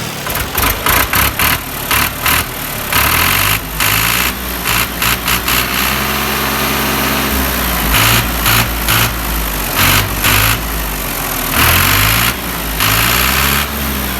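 Rebuilt tractor diesel engine running, its pitch rising and falling several times as it is revved up and back down.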